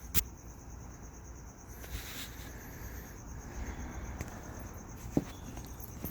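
Crickets chirping steadily in a high, fast-pulsing trill, with a sharp click shortly after the start and another about five seconds in.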